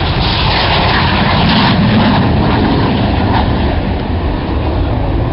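An aircraft flying past at an air show: a loud, steady rush of engine noise that swells about two seconds in and eases slightly near the end.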